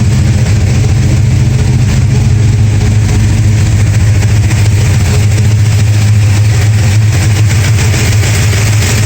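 1969 Dodge Charger's 440 big-block V8 running steadily at idle, with no banging or clatter now that its loose exhaust header bolts have been re-torqued.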